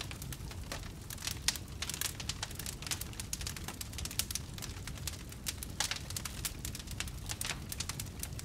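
Wood fire in a fireplace crackling, with frequent irregular pops over a low steady rumble of the flames; one louder pop comes about a second and a half in.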